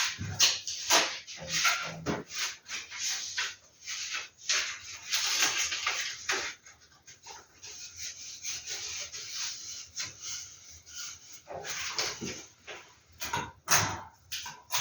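Paper rustling and crinkling in irregular bursts, with a few light knocks, as posters and their packaging are handled.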